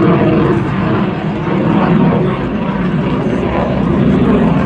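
Loud, steady jet noise from a Dassault Mirage 2000 fighter's single M53 turbofan during its flying display, dipping slightly in loudness a couple of times.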